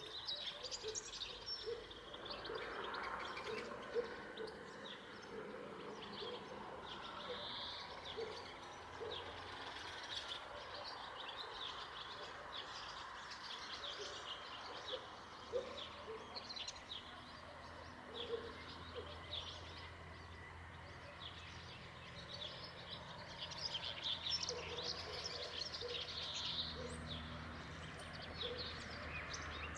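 Several songbirds chirping and singing, with quick high chirps throughout and some shorter, lower notes among them. A low steady hum comes in more strongly near the end.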